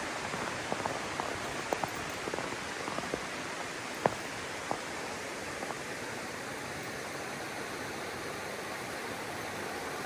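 Steady rush of flowing river water, with a few light clicks scattered through the first half.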